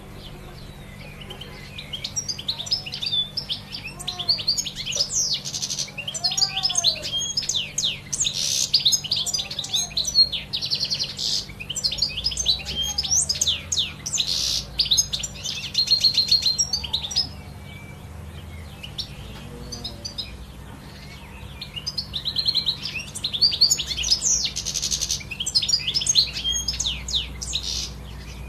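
Songbirds chirping and singing in a busy chorus of quick, high chirps, in two spells with a short lull between them. Fainter, lower calls rise and fall every couple of seconds beneath the chirping.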